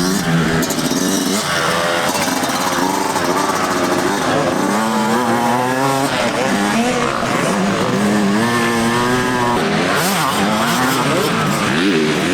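Several motocross bikes racing past, their engines revving up and down again and again through gear changes and throttle blips.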